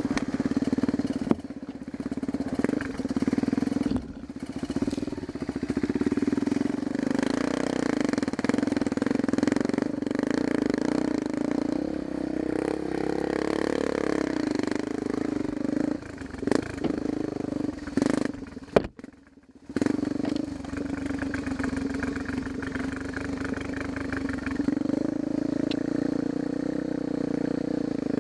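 Dirt bike engine running while riding on a trail, its pitch rising and falling with the throttle. About two-thirds of the way through, a sharp knock is followed by the sound dropping away for under a second before the engine comes back.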